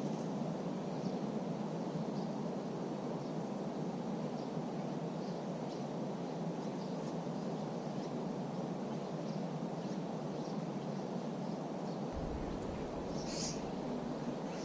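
Outdoor woodland ambience: a steady rush of wind through leafy trees, with faint scattered bird chirps and one clearer high chirp near the end.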